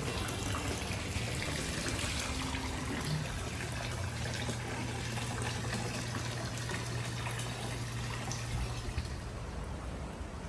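Water running and splashing steadily, with a low steady hum underneath that stops about nine seconds in.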